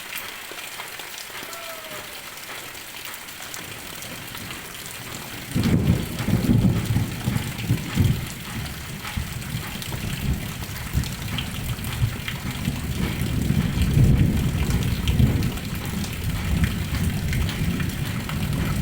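Heavy rain pouring steadily. About five and a half seconds in, a long low rumble of thunder sets in and rolls on, swelling and easing, under the rain.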